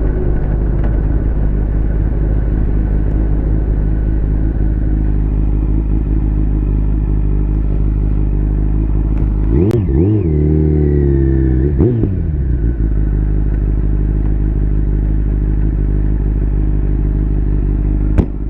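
Liter-bike motorcycle engine running at a steady road speed over a heavy low rumble. About ten seconds in, the engine note dips and climbs again over a couple of seconds as the revs change.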